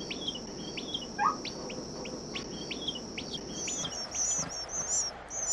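Small birds chirping: a quick series of short falling chirps, with higher chirps joining about four seconds in, over a steady high-pitched insect drone.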